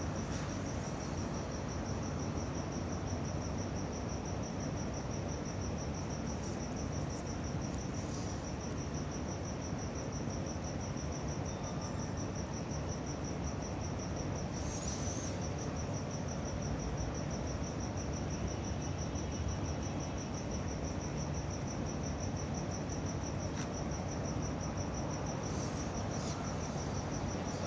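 Crickets chirping in a steady, high-pitched pulsing trill over a low, even background hum.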